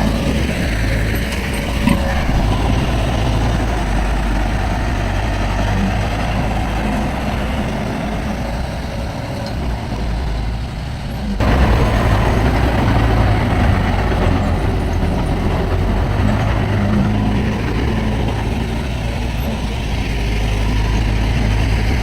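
Heavy diesel earthmoving machinery running steadily, a deep engine hum with clatter, which gets suddenly louder about halfway through.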